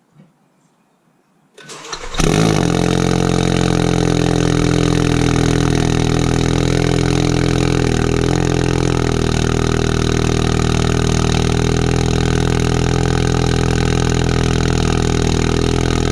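Ford Focus RS's turbocharged 2.3-litre EcoBoost four-cylinder cold-started about two seconds in, catching at once and then idling steadily and loud. On a cold start its active exhaust valve sits wide open, giving the full open-exhaust sound.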